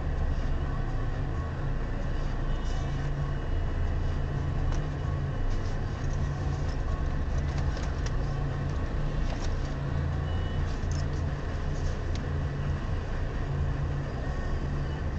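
Car engine idling with a low, steady rumble, picked up inside the cabin by a dashcam microphone, with a few faint ticks.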